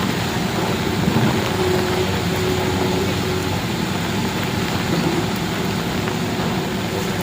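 Vehicle engine running steadily under a constant hiss of heavy rain.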